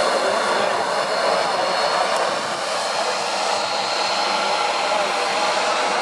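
Jet airliner engines running, a steady rushing noise with a faint high whine.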